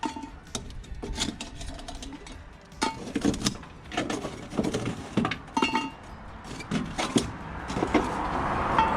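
Irregular metal clinks, scrapes and knocks, some with a short ring, as coals are shovelled around and onto a camp oven over a campfire. Near the end a rushing noise swells up, typical of a vehicle passing on a road.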